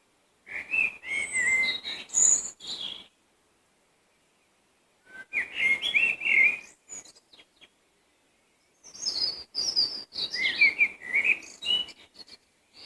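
A songbird singing three phrases of quick, varied whistled notes, each about two and a half seconds long with a pause of about two seconds between them.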